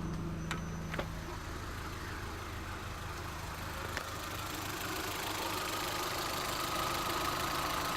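Vauxhall 1.6 twin-port Ecotec four-cylinder petrol engine idling steadily, really quiet. About halfway a steady high whine comes in and the running grows a little louder.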